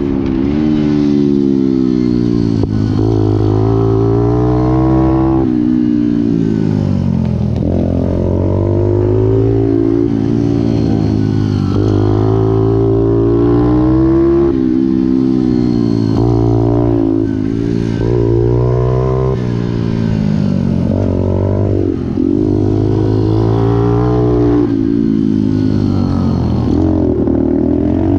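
Pit bike engine accelerating and easing off in turn, its pitch climbing and then dropping again every few seconds as it is ridden hard around a track.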